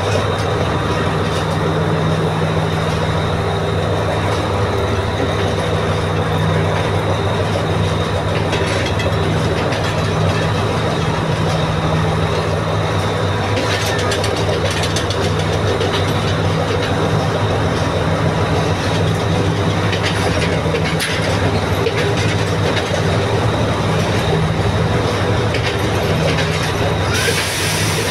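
Diesel passenger train engines running with a steady low drone while a train rolls slowly past on the adjacent track, its wheels clicking over rail joints a few times. A hissing noise starts near the end.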